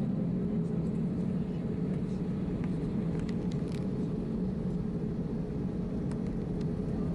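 Steady cabin noise inside an Airbus A319-111 airliner: an even rush with a low hum from the engines and air conditioning, and a few faint ticks.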